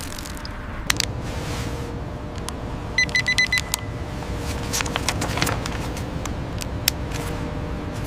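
Factory machinery running with a steady low rumble, scattered sharp metallic clicks and knocks, and a quick run of about six short high beeps about three seconds in.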